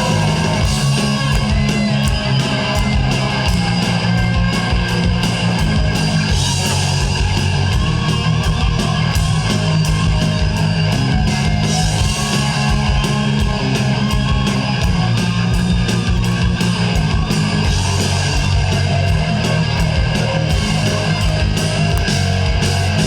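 Live rock band playing an instrumental break in the song: electric guitar over bass and drums keeping a steady, fast beat.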